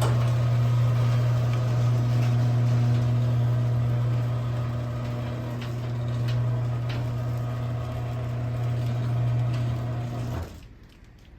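A 1/3 horsepower LiftMaster chain-drive garage door opener running as it raises the door: a steady motor hum with light clicking, cutting off suddenly about ten and a half seconds in.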